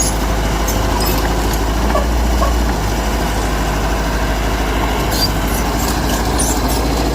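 Heavy diesel engine of earthmoving machinery running steadily, with short high clinks or squeaks in the first second and a half and again about five to six and a half seconds in.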